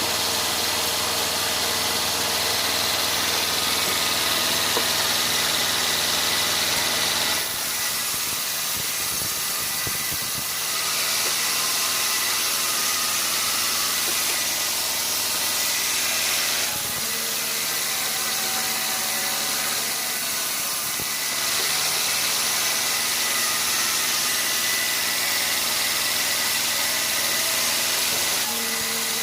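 Sawmill machinery running steadily: a constant engine-like hum with a hiss over it, changing abruptly in tone several times.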